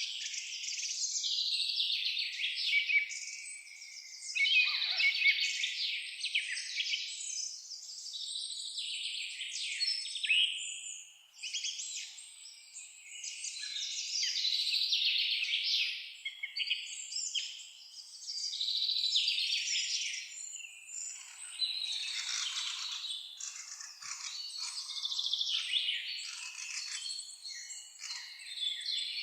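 A dense chorus of many songbirds chirping and singing at once, swelling and fading in waves every few seconds.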